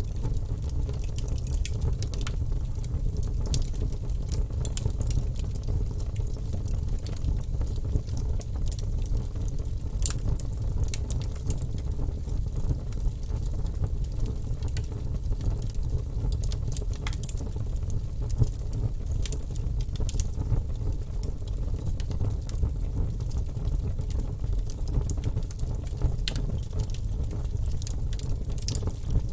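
Wood fire crackling and popping in a fireplace, with irregular sharp snaps over a steady low rumble.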